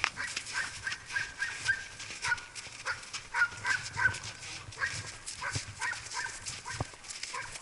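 Dog barking over and over, a long run of short, high barks at an irregular pace.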